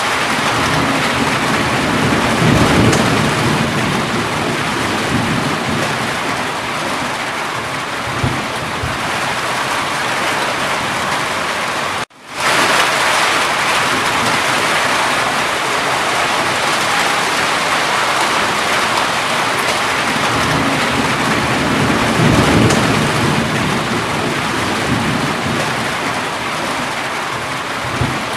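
Steady heavy rain falling, with low rolls of thunder rumbling twice, early on and again later. The sound cuts out abruptly for a moment near the middle, then comes back.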